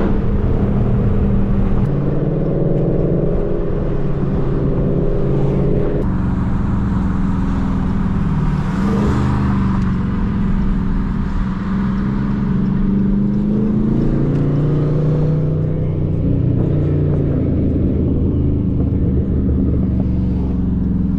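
Dodge Charger Scat Pack's 6.4-litre HEMI V8 running while cruising, its pitch slowly rising and falling with engine speed. The sound changes abruptly about six seconds in.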